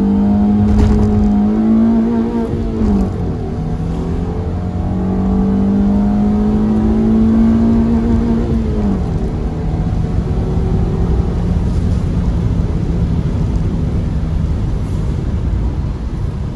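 Sixth-generation Honda Civic's four-cylinder engine revved hard and held at the rev limiter twice, about three seconds and then about five seconds, dropping back each time. After the second run it falls to a steady lower engine speed.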